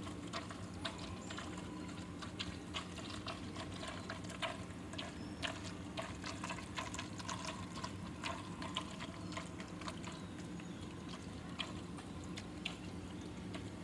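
Faint water sounds, light splashing and trickling with small scattered ticks, as a toy speed boat moves through water.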